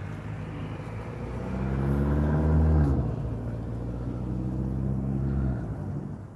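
A motor vehicle's engine pulling away: its pitch rises, drops suddenly at a gear change about three seconds in, then holds steady before fading out near the end.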